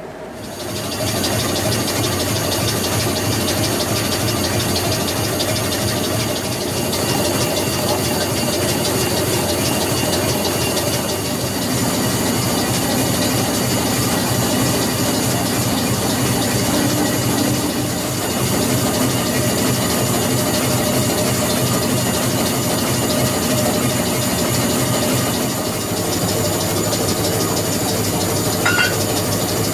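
Train running: a loud, steady mechanical drone with a hiss and several steady high-pitched tones over it.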